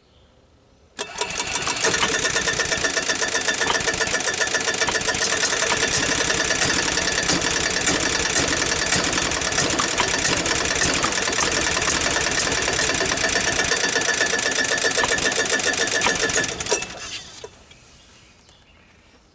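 Gas golf cart engine started on a squirt of starting fluid. It kicks in abruptly about a second in, runs with a rapid, even beat for about fifteen seconds, then dies away. The engine doesn't seem to be drawing gas, which the owner puts down to a carburetor that probably needs a rebuild.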